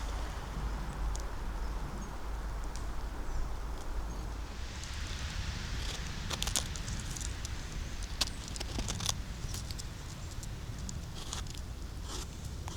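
Footsteps on a forest floor: leaves rustling and twigs and small branches crackling and snapping underfoot, with a few sharp snaps in the second half, over a steady low rumble.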